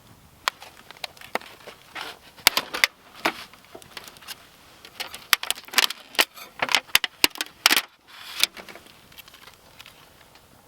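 Irregular clinking and clattering of small hard objects being handled: quick knocks and clicks, bunched between about two and eight seconds in.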